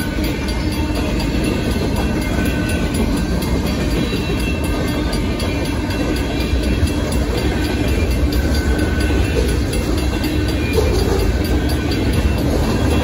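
Freight train cars rolling steadily past, steel wheels running on the rails with a continuous loud rumble.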